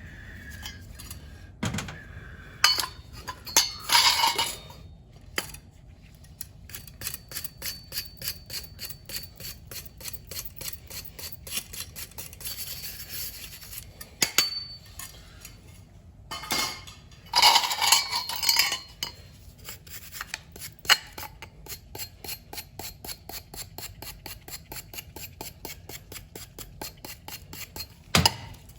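Fast, even back-and-forth scrubbing strokes on metal, about three to four a second, as the soot-fouled gas burners of an old Slant Fin boiler are brushed clean. Louder metal clinks and clatter of the parts being handled come a few seconds in and again about halfway through.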